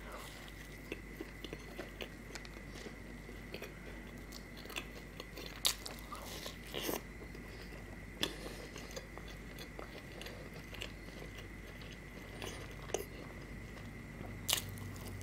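Close-miked biting and chewing of a fried medu vada, with crunching and wet mouth clicks scattered irregularly. A few sharper crunches stand out, the strongest about six seconds in and near the end.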